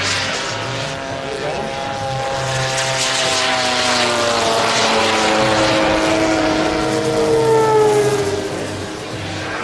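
Engine and propeller of a giant-scale radio-controlled model airplane in flight, a steady drone whose pitch slides slowly down.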